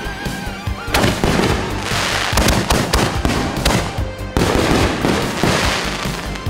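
A board of fuse-linked fireworks mortar tubes firing shells in quick, irregular succession: sharp launch bangs and aerial bursts with hissing in between. Background music plays underneath.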